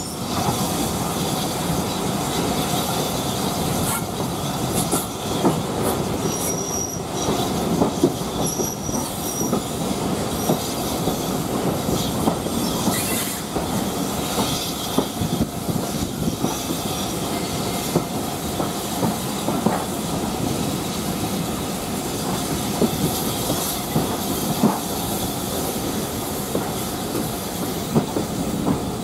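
Steam-hauled passenger train's coach wheels running on the rails as the train comes into a station, with clicks over rail joints and points and a few brief high wheel squeals in the first third.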